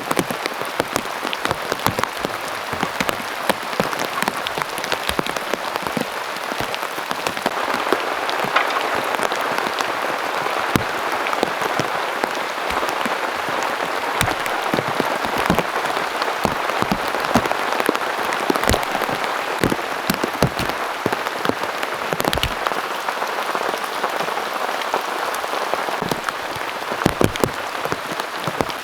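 Heavy autumn rain falling steadily, a dense hiss with many sharp individual drops striking close by.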